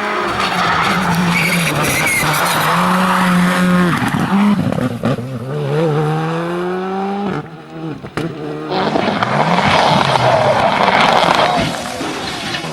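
Rally car engine revving hard, its pitch climbing and dropping again and again through gear changes, with tyre and skid noise, and a sudden break about seven seconds in.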